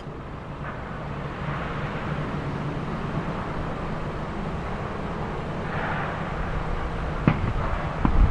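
Boeing 787-8 jet engines running: a steady rushing noise over a low rumble that slowly grows louder. Two sharp knocks near the end.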